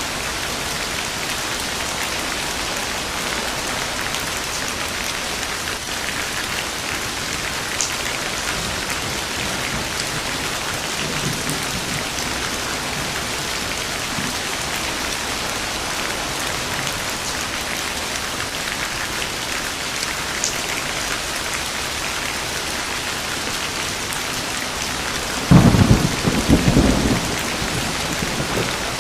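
Steady heavy rain falling, with a sudden loud clap and rumble of thunder a few seconds before the end that dies away within about two seconds.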